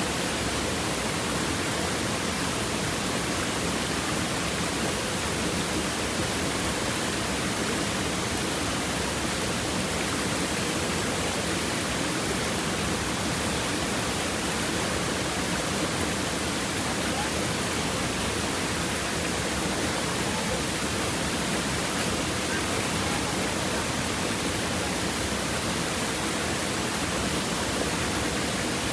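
Stream water babbling and rushing over rocks, a steady even wash of sound.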